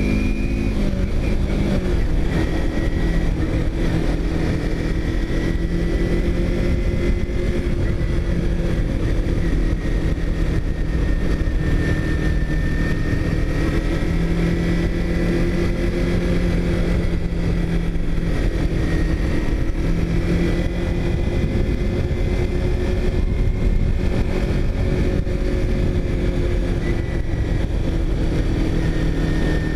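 A vehicle engine running at a steady cruising speed, its pitch drifting gently up and down, over a constant low rumble.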